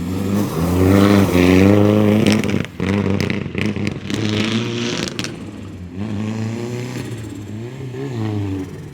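Lancia Delta Proto rally car's 400 hp engine revving hard. The note climbs and falls with gear changes, breaks off briefly about three seconds in, and comes with a run of sharp cracks over the next couple of seconds before climbing and dropping again near the end.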